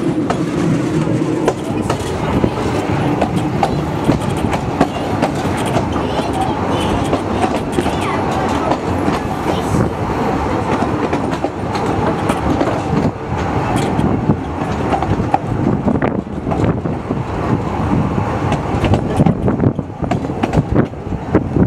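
Narrow-gauge railway carriage running along the track, heard from on board: a steady rumble of wheels on rails with a continual clatter of clicks and rattles.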